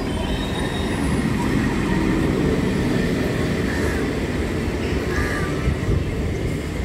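Train running along the tracks through the station: a steady rumble that grows a little louder in the first couple of seconds, then holds.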